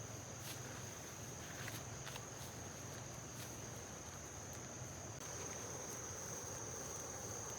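Insects chirring in one steady, high-pitched drone, with a few faint rustles.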